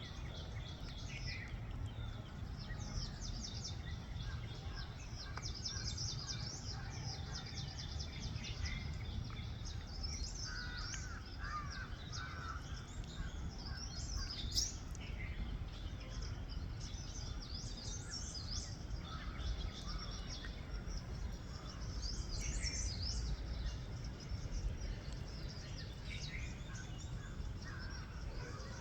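A flock of parrots calling, with many short, repeated shrill calls overlapping over a steady low background rumble. One sharp click sounds about halfway through.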